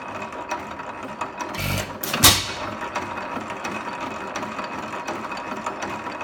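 8 hp Economy hit-and-miss stationary engine running, coasting with steady light clicking from its valve gear, and firing once with a loud sharp bang about two seconds in.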